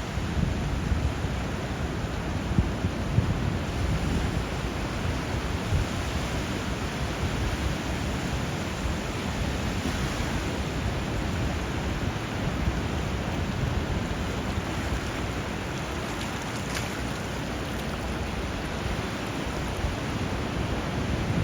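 Steady rush of flowing river water and breaking sea waves, a dense even noise with a deep low rumble.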